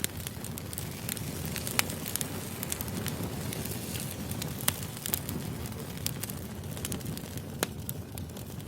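Firewood burning, crackling over a steady low rush, with scattered sharp pops, a few of them louder.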